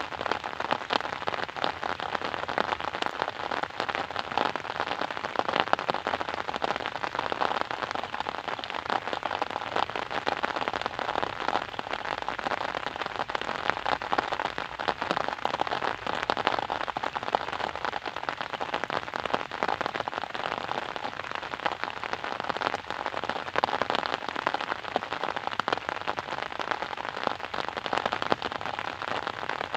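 Steady rain pattering on a surface, dense with many small drop impacts.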